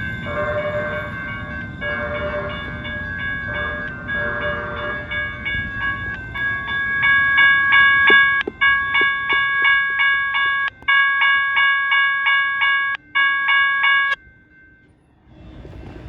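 Train horn sounding a chord, first in softer broken blasts, then in loud long blasts with short breaks between them, stopping abruptly about two seconds before the end. Underneath it is the rumble of the train on the rails.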